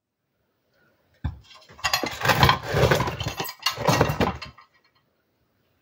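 Metal clattering and scraping for about three seconds, with a brief pause in the middle, as parts of a small enamelled wood stove are handled.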